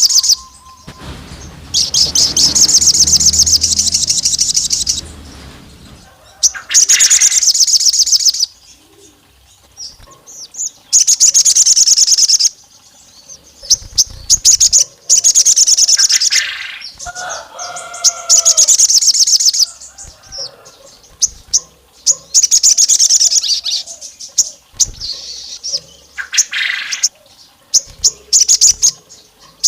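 A sogon songbird singing in repeated loud bursts of rapid, high, trilled chirping, each burst one to three seconds long with short pauses between them. Lower, warbled notes come in near the middle. It is played as a lure song, its calls likened to a female calling a male and meant to rile rival males.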